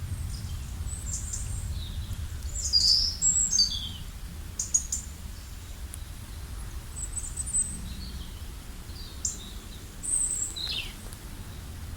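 Several wild birds chirping and calling in a forest: short high chirps and quick falling notes, a few at a time with brief gaps between them. Underneath is a steady low rumble.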